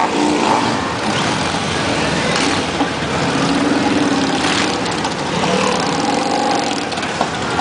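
Many motorcycle engines running together, a dense, continuous mix in which individual engine notes rise and fall as bikes rev.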